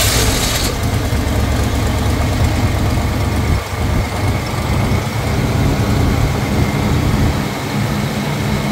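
Ford 460 big-block V8 in a 1972 Lincoln Mark IV catching with a brief flare and settling into a loud, steady idle. The owner says the engine has an exhaust leak at the exhaust manifold.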